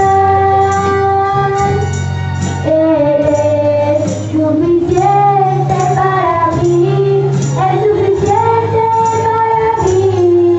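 Christian worship song sung by a high voice over instrumental accompaniment, with long held notes, a steady bass line and a regular light percussion beat.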